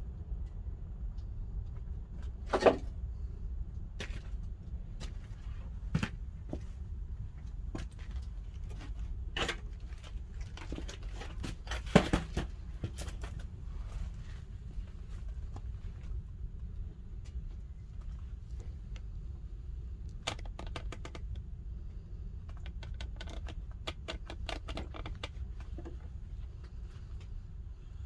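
Pine firewood burning in a wood-fired kiln, crackling and popping irregularly over a low steady rumble, with two sharp loud pops about 3 and 12 seconds in and a quick run of crackles near the end.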